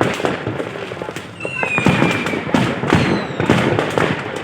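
Fireworks display: a dense, rapid string of bangs and crackling bursts, with a high whistle gliding slightly downward about a second and a half in.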